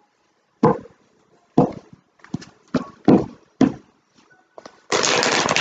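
Tarot cards being handled on a table: several separate sharp taps and slaps of the deck, then from about five seconds in a dense, continuous shuffling rustle.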